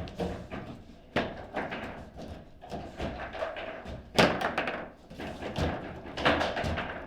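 Table football in play: irregular knocks and clacks of the ball against the plastic players and the table walls, with loud sharp hits about a second in, about four seconds in, and just after six seconds.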